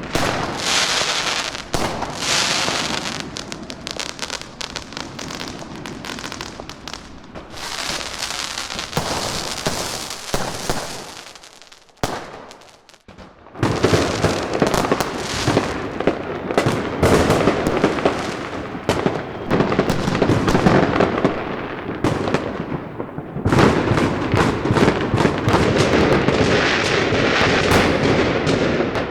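Firecrackers and fireworks going off in dense, rapid strings of crackles and bangs. They die down briefly a little less than halfway through, then start again thicker and louder.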